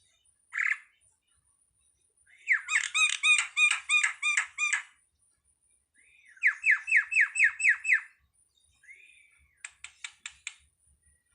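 Jalak (starling) calling: a short note, then two quick runs of repeated arched notes at about four a second, and a rapid series of clicks near the end.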